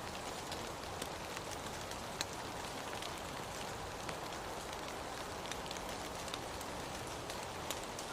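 Steady rain falling, an even hiss with scattered sharper drops pattering close by.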